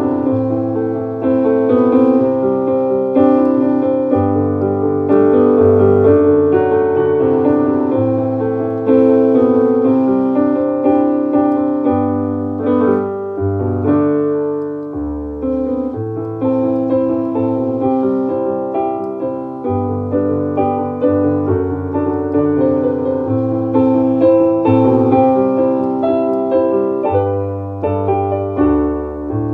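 Instrumental piano music: sustained chords over a bass line that changes every second or two, with no singing.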